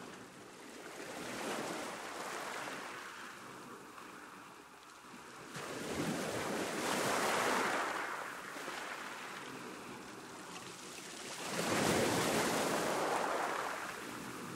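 Sea waves breaking on a shore and washing back: three surges, a small one early and two bigger ones about six and twelve seconds in, each swelling and then fading.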